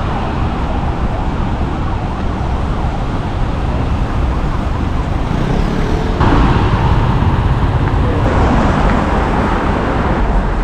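Dense city street traffic noise: running engines and tyres in a steady rumble. The sound changes abruptly about six seconds in.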